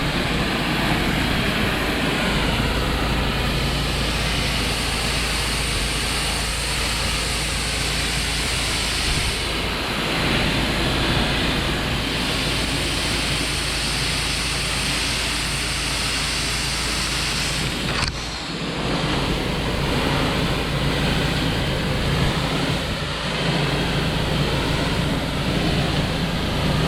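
Pressure washer running steadily, its engine humming under the hiss of high-pressure water spray; the high hiss drops away for a few seconds about a third of the way in, and a sharp click comes about two-thirds of the way in.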